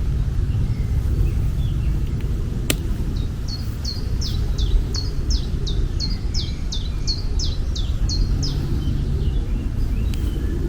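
A songbird singing a series of about a dozen high, quickly falling notes, evenly repeated, over a steady low rumble of outdoor ambience; a single sharp click sounds shortly before the song starts.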